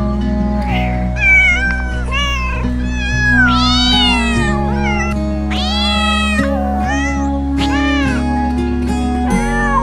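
A cat meowing over and over, mostly short rising-and-falling meows with two longer drawn-out ones, over steady background music.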